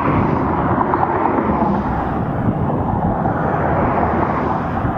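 Steady rushing of wind over the microphone from riding at speed, mixed with the road noise of traffic passing on the highway alongside the bike lane.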